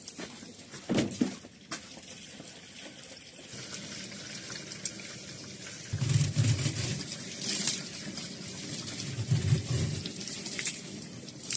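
Water running from a kitchen tap into a sink, with a few knocks about a second in. The rush of water builds a few seconds in and surges louder twice.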